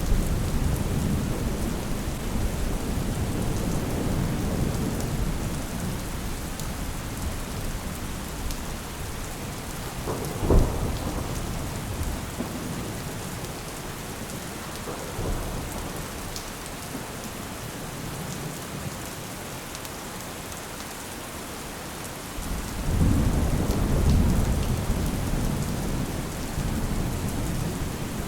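Steady rain falling with rolling thunder. A low rumble fades away over the first several seconds, a sudden sharp crack comes about ten seconds in, and a new rumble rolls in a little after twenty seconds.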